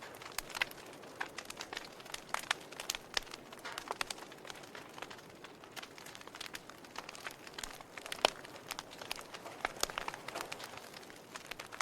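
Wood fire in a fireplace crackling: irregular sharp pops and snaps over a soft steady hiss, the loudest pop about eight seconds in.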